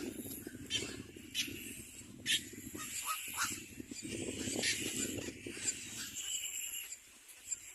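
Birds calling in short, high squeaks and chirps over a low rumble.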